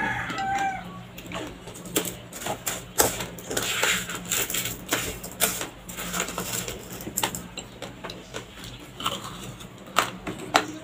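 Raw, uncooked white rice grains crunched between the teeth: an irregular run of sharp cracks and crackles. A chicken clucks briefly at the very start.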